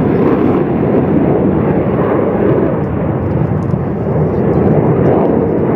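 Turbofan engines of Sukhoi Su-27 fighters in flight, a loud steady jet roar that holds throughout without breaks.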